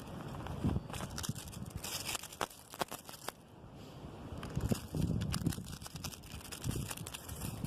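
Gusty wind shaking tree branches, with rustling, crackling and clicking from the branches and a low rumble of wind buffeting the microphone that rises and falls with the gusts.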